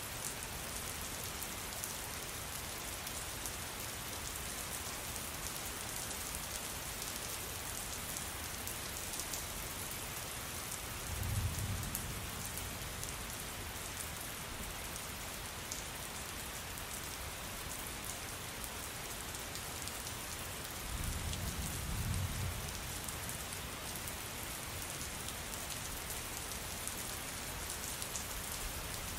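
Rain falling steadily, a dense patter of drops, with two low rumbles of distant thunder, one about eleven seconds in and another around twenty-one seconds.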